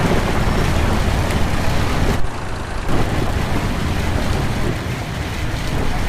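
School bus driving in heavy rain: steady engine and road noise mixed with rain, with a brief dip in level about two seconds in.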